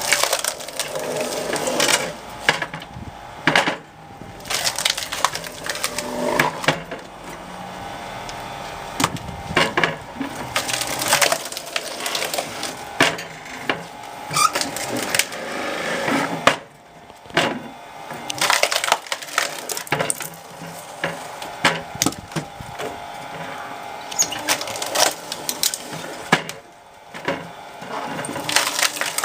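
Firewood logs being split by a screw-cone log splitter, the wood cracking and splintering apart again and again in irregular bursts.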